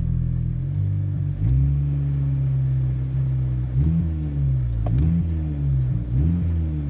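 2002 Volkswagen Jetta's 2.0-litre four-cylinder petrol engine revving: the pitch steps up about a second and a half in and holds, then rises and falls in a run of quick throttle blips.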